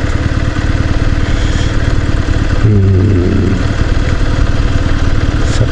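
Motorcycle engine idling, a fast, even pulsing of firing strokes. About three seconds in a brief, louder wavering tone rises over it for under a second.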